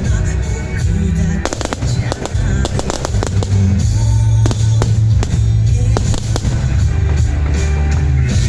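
Aerial fireworks going off in many sharp cracks and bangs, fewer in the second half, over loud music with a heavy bass line.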